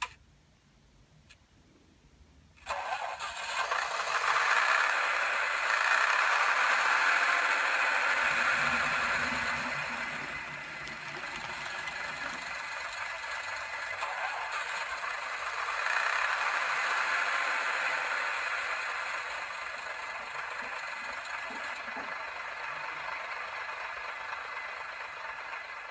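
N gauge model train running on the layout: a steady mechanical rattle and whirr that starts suddenly about three seconds in, swells twice and eases toward the end.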